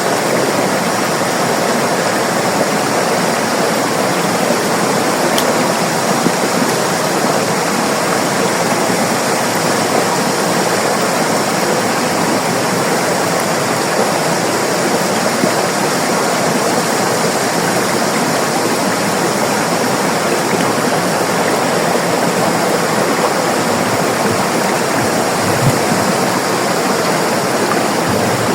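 River water rushing and splashing over rocks in a steady, full roar that does not change.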